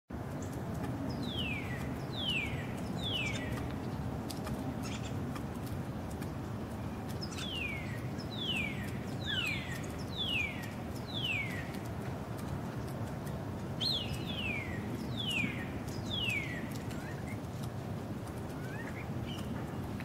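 A bird singing clear whistled notes that each slide down in pitch, repeated about once a second in short runs of three to five, over a steady low background rumble.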